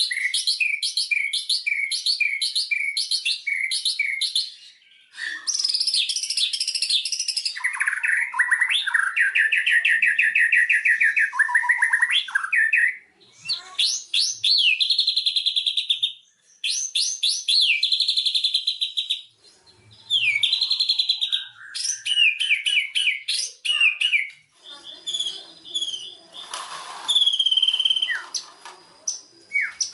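White-rumped shama (murai batu) singing a varied song: a fast run of repeated notes, then clear whistled phrases and trills that rise and fall, with short pauses between phrases. A brief harsh, noisy note comes near the end.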